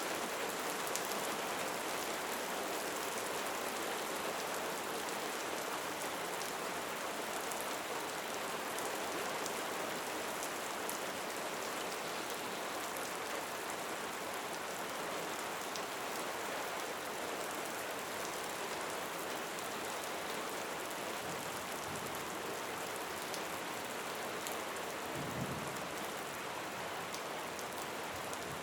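Steady rain falling, an even hiss with many fine drop ticks. A brief low thump comes near the end.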